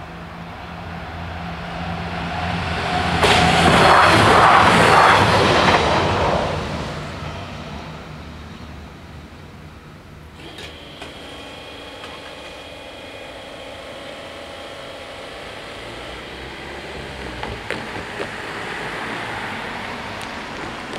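A Siemens Desiro diesel railcar passes over the level crossing. It is loudest about four seconds in and has faded by about seven seconds. About ten seconds in, a steady humming starts suddenly while the crossing barriers rise, and a car drives across near the end.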